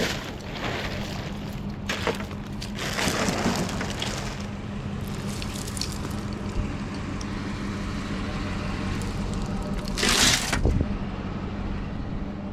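Steady hum of a vehicle engine running, with rustling and clattering handling noises over it and one short loud rustle near the end.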